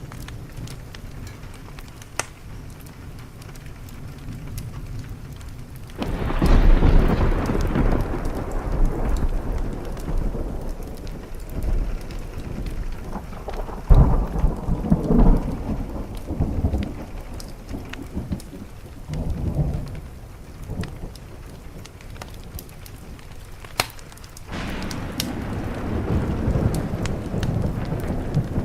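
Rolling thunder over steady rain on a window, with scattered sharp ticks. A long rumble starts suddenly about six seconds in, swells again midway and dies away, and another rumble begins near the end.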